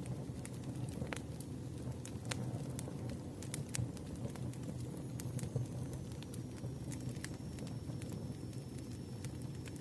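Campfire crackling: a steady low rumble of burning with sharp pops and snaps at irregular intervals, and a faint thin high hiss-like tone from about halfway.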